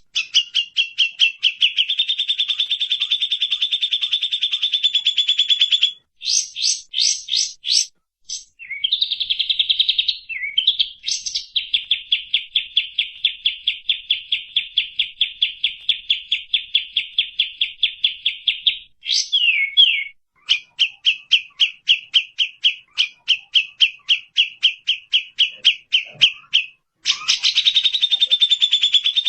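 Recorded songbird song: long, fast trills of rapidly repeated sharp chirps, some as steady buzzing runs, others as stuttering series, broken by short pauses about 6, 8, 10, 20 and 27 seconds in.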